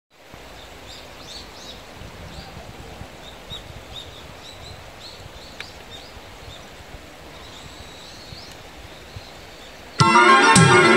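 Quiet outdoor ambience with a steady low background and many faint, short bird chirps. About ten seconds in, loud music starts abruptly.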